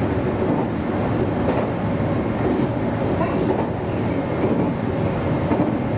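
Meitetsu 1200 series electric train running along the line, a steady rumble of wheels on rail with a few faint clicks about a second apart, heard inside the front car.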